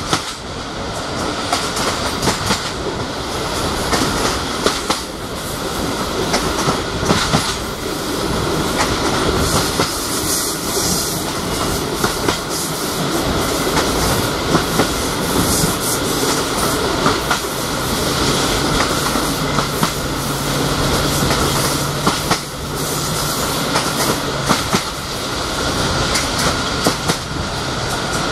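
Coaches of a Romanian CFR regional passenger train running along the track, heard from a coach window: a steady rumble with wheels clicking over rail joints every second or two. A low steady hum joins for several seconds in the second half.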